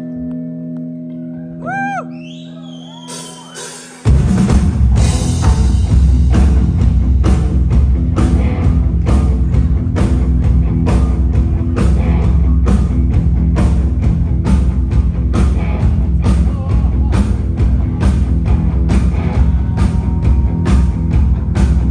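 Live rock band heard through a phone microphone: a held guitar chord rings and fades, then about four seconds in the full band comes in loud, with drums keeping a steady beat of about two hits a second under guitar.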